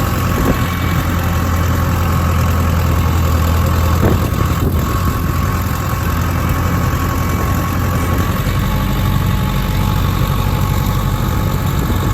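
Ford 6.0-litre diesel engine idling steadily after a cold start.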